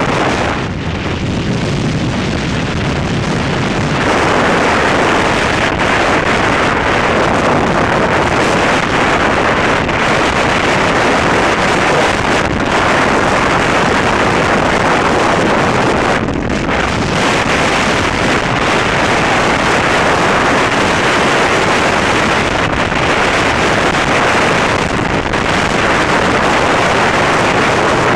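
Wind rushing over the microphone of a motorcycle on the move, a loud, steady hiss that gets louder about four seconds in.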